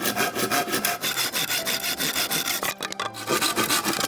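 Hand saw cutting through bamboo in rapid, even back-and-forth strokes, with a short pause just before three seconds in.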